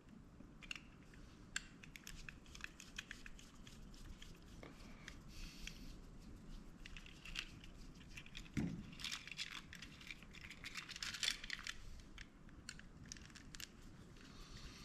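Faint, scattered clicks, ticks and rustles of the plastic and metal parts of a Pelco dome security camera being handled and worked loose during its teardown, with one soft thump a little past halfway.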